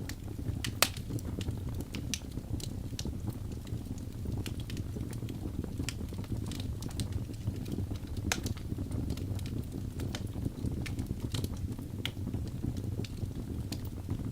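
Wood fire burning in a fireplace: a steady low rumble of the flames with irregular sharp crackles and pops from the burning logs, one louder pop a bit under a second in.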